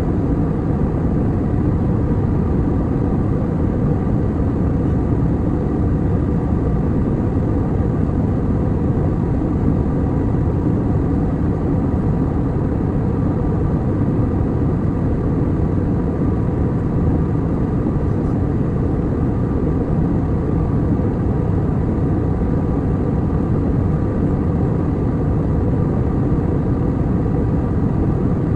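Airliner cabin noise in flight: a steady, unchanging rumble of jet engines and airflow, with a faint steady hum above it.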